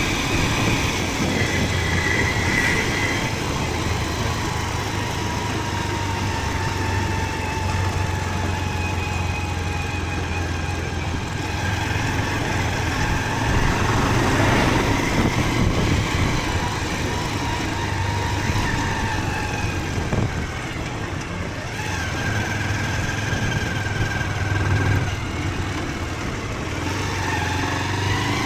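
Motorcycle engine running steadily under way, with a low hum and a note that drifts gently up and down.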